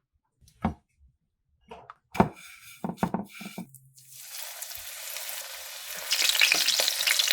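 Oil sizzling as food fries, starting about four seconds in and growing louder. It follows a few short, separate knocks and sounds.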